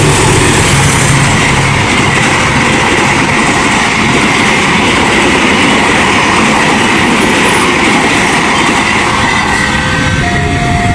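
The Argo Semeru passenger train rushing fast through a level crossing, its wheels clattering loudly over the rails, with a thin steady high squeal through the middle of the pass. Near the end the crossing's electronic warning tones come back in as the train's noise thins out.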